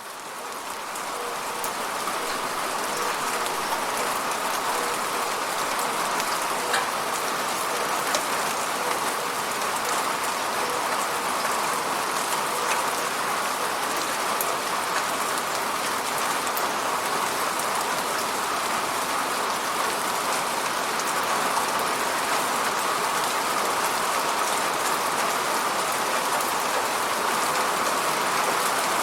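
Steady rain with individual drops tapping on a window pane, fading in over the first second or two.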